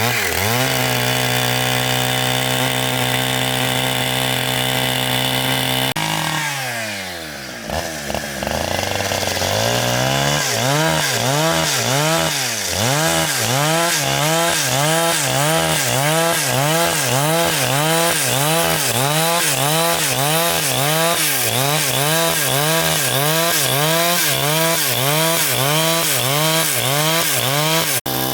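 Engine-driven saw running as it cuts wood. It runs steady at first, drops in pitch about six seconds in and picks back up, then its pitch rises and falls rhythmically about once a second under the changing load of the cut.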